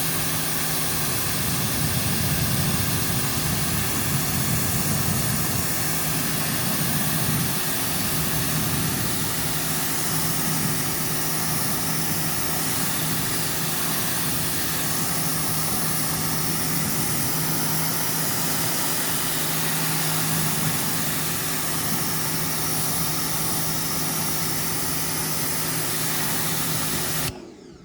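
Pressure washer running steadily while its wide 40-degree spray rinses foamed cleaner out of an air-conditioner's condenser coils, a steady motor tone under the hiss of water. It cuts off suddenly near the end.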